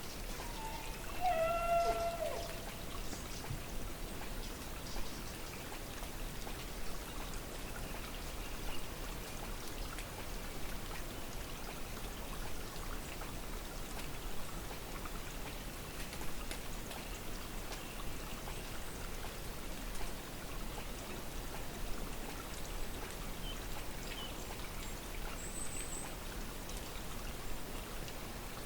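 A steady rushing hiss throughout, with one drawn-out distant animal call about a second in that drops slightly in pitch and then holds for about a second. This is the unidentified animal call the recordist has never been able to name. A faint high chirp comes near the end.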